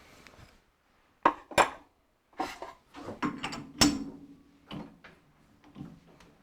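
A string of sharp metal clinks and clanks from hand work at a metal lathe while a tap is worked into a hole. The loudest knocks come about a second in and near four seconds, the last one followed by a brief ring.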